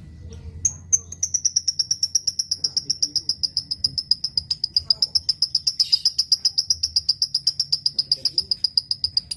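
Lovebird giving a long, unbroken chattering trill (ngekek) of rapid high notes, about eight a second. It begins under a second in, and the pitch sinks slowly as it goes on.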